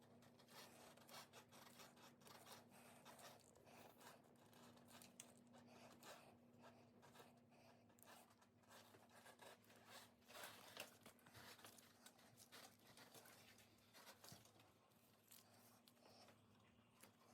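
Faint handling noises: scattered light scrapes, rubs and small clicks as a hydraulic brake lever is fitted back onto an e-bike handlebar, over a low steady hum.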